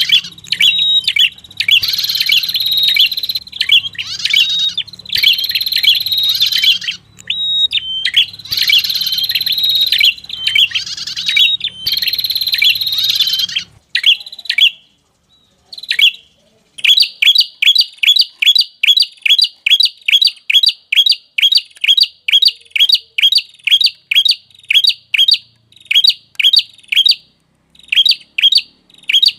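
Lure recording of the red-headed prenjak's call. Loud, high chattering phrases about a second or two long, with short breaks, fill the first half over a faint low hum. After a pause of a few seconds comes a steady run of sharp chip notes, about two a second.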